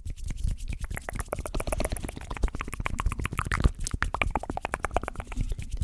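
Close-miked ASMR mouth sounds: a rapid run of wet tongue clicks and lip smacks, many a second.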